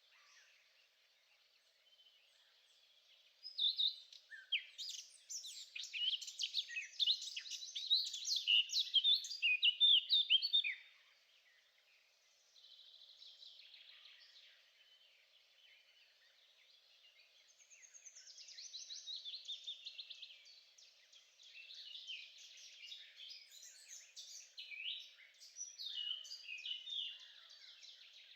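Songbirds singing: a long run of rapid chirps and trills about four seconds in that stops near eleven seconds, then more song from about eighteen seconds on.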